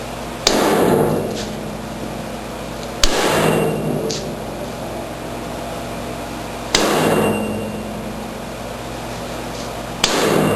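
Hammer blows on the bent metal first-stage auger corkscrew of a John Deere 1032 snowblower, knocking it back straight after it struck an object. Four heavy strikes about three seconds apart, each ringing for about a second.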